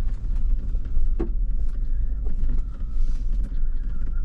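Off-road 4x4 driving on a rough dirt road, heard from inside: a steady low rumble with many small rattles and knocks from the bumps, one heavier knock about a second in.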